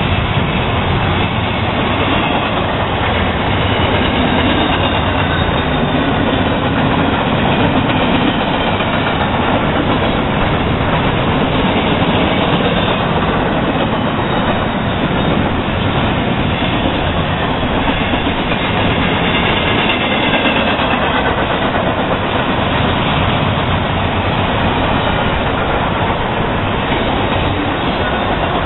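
Double-stack intermodal well cars of a freight train rolling past: a steady rumble of steel wheels on the rails.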